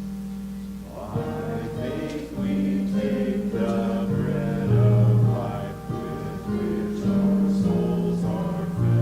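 Congregation singing a hymn together to instrumental accompaniment, with long held bass notes changing step by step under the voices.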